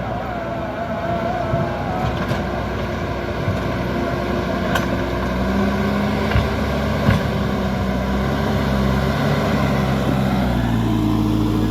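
Diesel engine of a JCB backhoe loader running steadily under light load, its pitch shifting slightly, with a few short sharp knocks.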